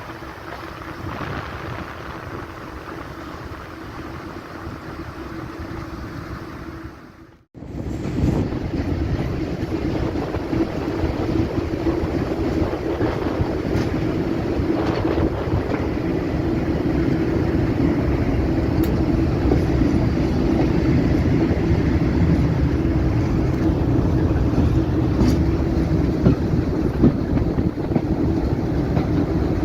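Diesel locomotive engine running with a steady drone and low rumble. About seven seconds in, the sound drops out for a moment and comes back louder.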